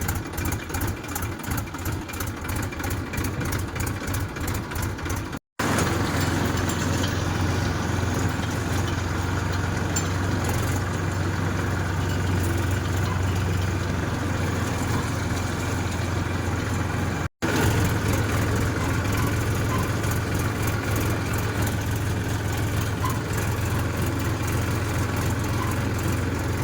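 Tractor diesel engine running. At first it idles with a rapid, even pulsing. After an edit cut it runs steadier and slightly louder.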